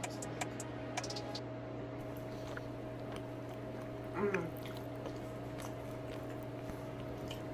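Chewing and small mouth sounds of a person eating sauce-covered chicken wings, with a few faint clicks near the start and a short voiced hum about four seconds in, over a steady low hum.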